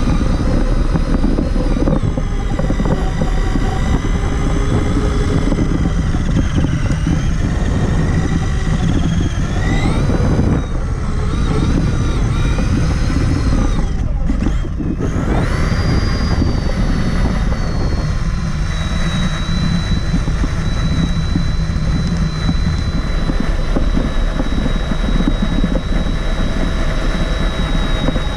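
Electric motor and gear whine of a Traxxas Summit 1/10-scale RC truck, heard from a camera mounted on the truck. The pitch rises and falls with the throttle and drops away briefly twice near the middle, then holds one steady high whine through the second half. Underneath is a rough rumble from the drivetrain and terrain.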